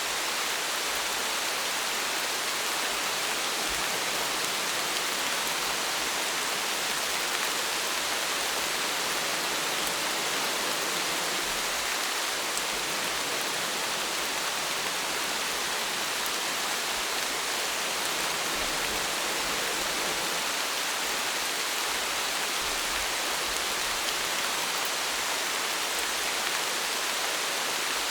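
Steady rain, an even hiss with faint drop ticks and no pauses or changes.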